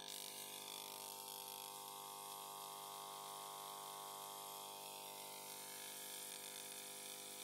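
Homemade alpha Stirling cooler/heat pump running with a steady, even hum.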